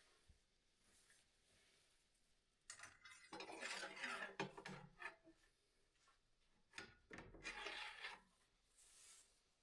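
Faint scraping and rubbing as lambing-jug panels and their connecting rods are handled and fitted together. It comes in two spells, about three seconds in and again about seven seconds in.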